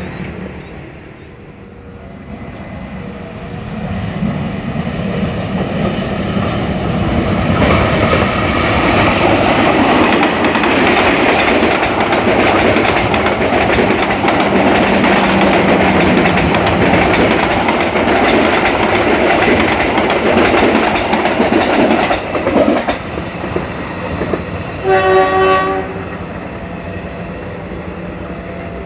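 Indonesian KAI passenger train passing. The noise of its wheels and coaches builds from a couple of seconds in, stays loud for over ten seconds, then drops off suddenly. About 25 seconds in, a train horn sounds once, briefly.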